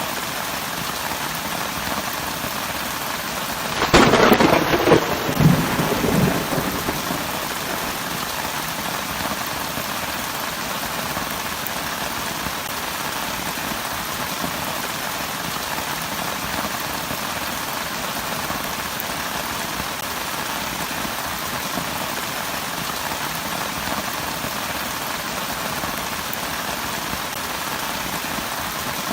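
Steady heavy rain falling, with one thunderclap about four seconds in: a sharp crack followed by a rumble that dies away over a few seconds.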